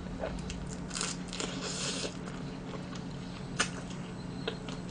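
Close-miked eating: a person biting and chewing food with soft wet crackles and small clicks, thickest between about one and two seconds in, and one sharper click about three and a half seconds in.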